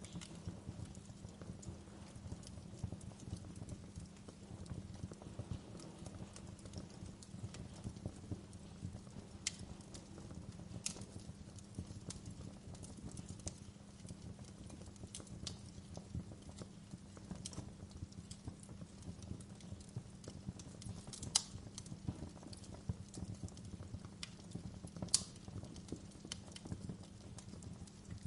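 Wood fire crackling: a steady low rumble with irregular sharp pops and snaps, two louder pops in the second half.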